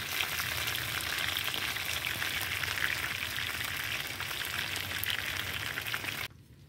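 Chicken roll frying in a pan of oil: a steady, dense sizzle and crackle of bubbling oil that stops abruptly near the end.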